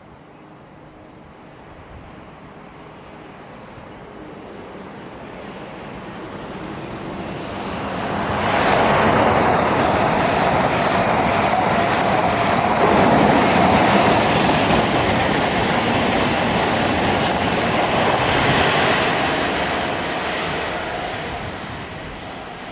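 A train passing: it builds up as it approaches, runs loud for about ten seconds as it goes by, then fades away.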